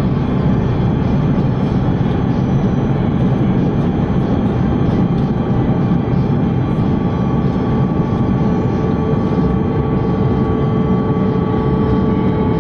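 Steady cabin roar of an Airbus A330-300 in flight, from its Rolls-Royce Trent 700 engines and the airflow over the fuselage, heard from inside the cabin, with faint steady humming tones on top.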